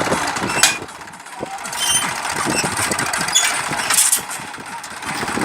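New Holland tractor's diesel engine running with a fast clatter, easing off briefly about a second in and again near the end.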